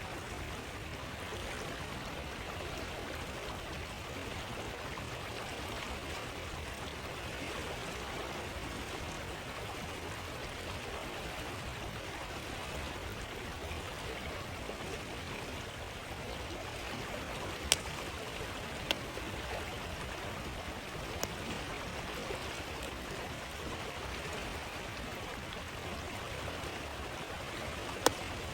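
Stream flowing with a steady rush of water, and a few sharp pops from a crackling campfire, four of them, in the second half.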